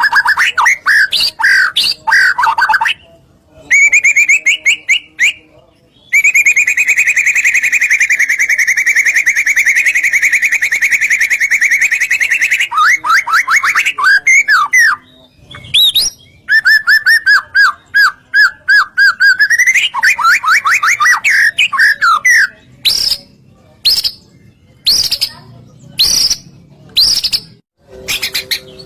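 White-rumped shama (murai batu) singing loud, varied phrases: fast rattling trills, one long even trill held for about six seconds, then a run of short sharp notes near the end.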